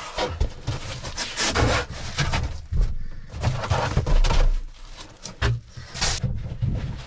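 Gear being handled and moved about while a cabin is cleared out: irregular knocks, scrapes and rustling, with a short low rumble about four seconds in.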